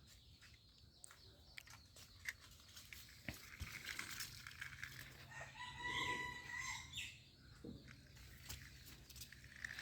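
A faint rooster crowing, one long call about six seconds in, over scattered light clicks and knocks.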